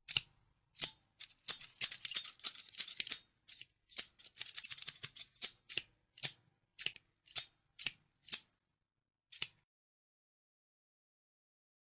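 Scissors snipping: quick, dense runs of cuts in the first five seconds, then single crisp snips about twice a second that stop after about nine seconds.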